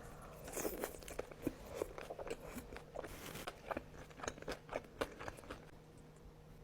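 Close-miked chewing of sushi, with crunchy bites and many irregular wet mouth clicks that taper off near the end.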